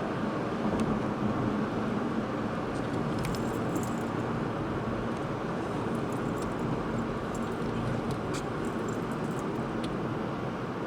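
Steady road and engine noise of a car being driven, with a low hum and a few faint light clicks.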